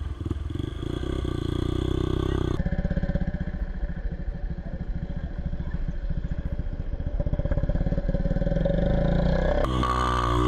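Motorcycle engine running steadily, with the sound changing abruptly about two and a half seconds in and again near the end, where the engine pitch rises.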